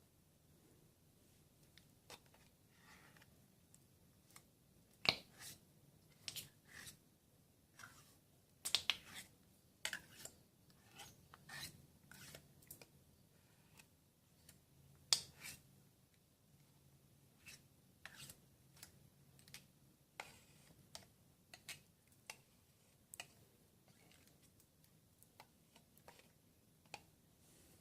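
Scattered, irregular clicks, snaps and short scrapes of hand work with metal tools, a few of them much louder than the rest.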